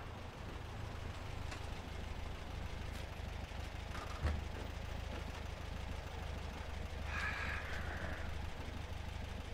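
A car engine idling, a low steady hum, with a single thump about four seconds in.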